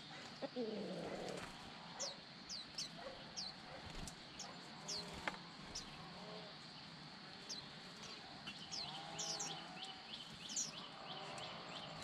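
Small songbirds in an aviary chirping: short, high, falling chirps repeated every half second or so, thickening into a rapid twittering in the second half. A lower call falls in pitch about half a second in.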